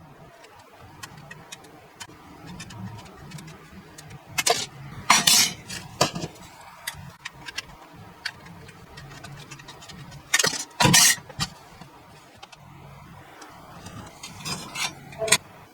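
Thin sheet metal clinking and clattering, like tin cans being handled and worked, with light ticks throughout and a few louder clanks and scrapes in three clusters: about a third of the way in, around two-thirds, and near the end.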